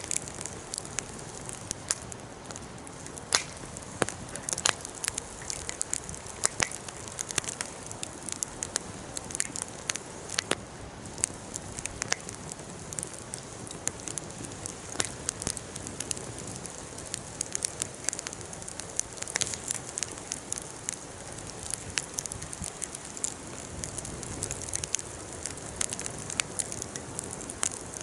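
Bonfire burning, with irregular sharp pops and crackles over a steady hiss.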